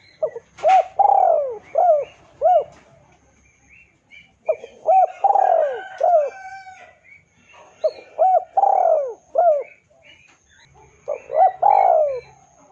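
Spotted dove (tekukur) cooing: four phrases of quick, hooked coos, each about one to two seconds long, spaced a few seconds apart. This is a dove's territorial call, used as a lure to draw a rival into answering.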